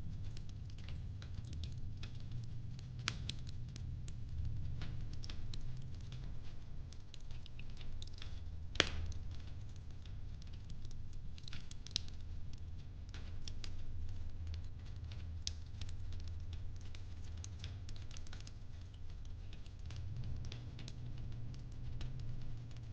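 Fireplace crackling: a steady low rumble of flames with irregular small pops, and one louder pop about 9 seconds in.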